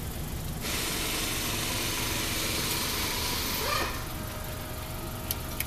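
Car engine idling steadily, with a loud even hiss starting about a second in and stopping about four seconds in.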